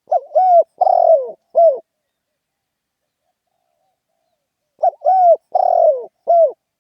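Spotted dove cooing its lively call: two phrases of four notes each, the second starting about three seconds after the first ends.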